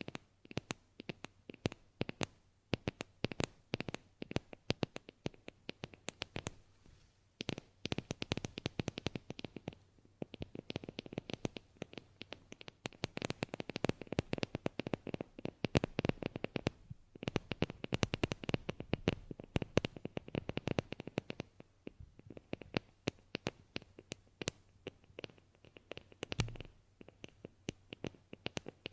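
Close-miked ASMR trigger sounds: dense, rapid crackling clicks and scratches, coming in stretches of a few seconds with short breaks between them.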